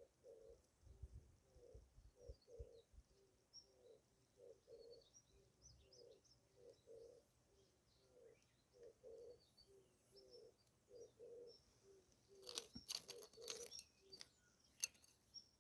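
Faint dove cooing, repeated over and over at an even pace, with small birds chirping faintly. Near the end there is a short run of sharp clicks and rustles.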